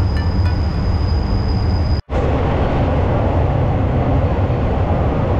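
Thai 3rd-class railway coach running, heard from inside with the windows open: a steady low rumble of the train in motion. A thin high whine sits over it at first, and the sound cuts out abruptly for a moment about two seconds in before the rumble resumes.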